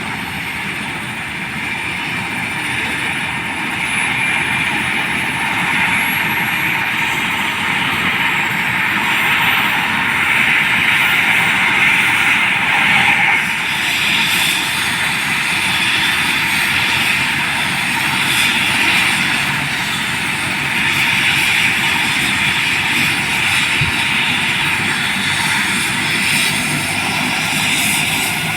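Helicopter turbine engine and rotor running on the ground before lift-off, a steady noise with a faint high whine that slowly rises in pitch over the first dozen seconds.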